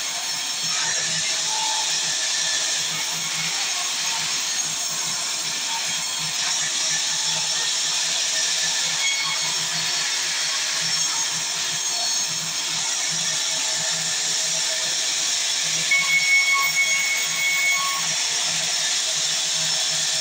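Sawmill saw running steadily as it cuts mahogany timber, a constant high-pitched hiss of blade through wood. Near the end a short high whine and a few louder bumps join in for about two seconds.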